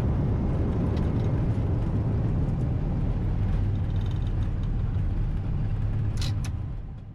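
Steady low noise of an Airbus A320 during its landing rollout, heard on the flight deck, with two sharp clicks a little after six seconds in, then fading out.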